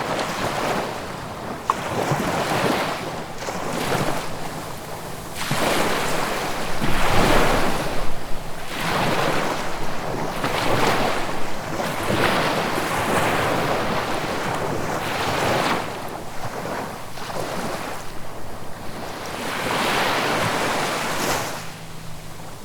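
Small sea waves washing onto the shore, one rush of surf after another every second or two, with some wind.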